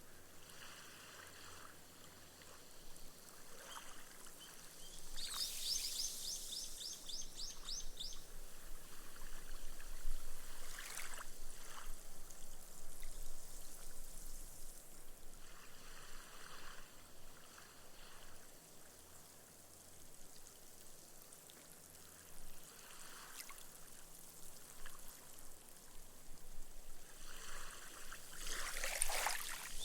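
Small, gentle waves washing up on a sand beach, each swell ending in a fizzing hiss as the foam soaks into the sand, coming every several seconds. A bird's rapid high trill sounds about five seconds in and again near the end.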